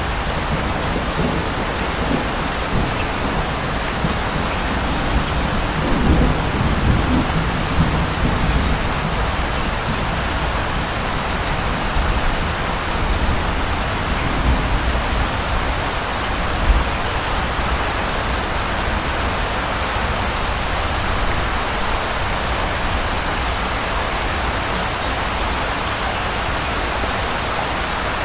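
Steady rain falling, with a low rumble of distant thunder rolling for a few seconds about a quarter of the way in and a short low thump later on.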